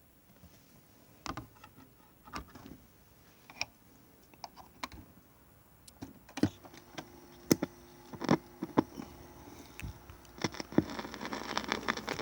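Vinyl LP's lead-in groove under the stylus: scattered clicks and pops over faint surface noise. They come sparsely at first and more often in the second half.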